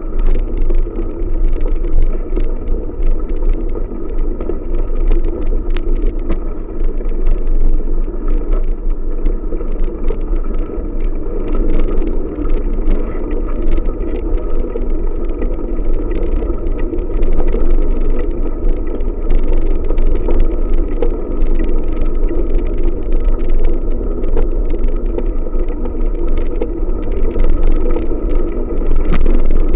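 Wind buffeting the microphone and tyre rumble while riding a bicycle, a steady rough rushing noise.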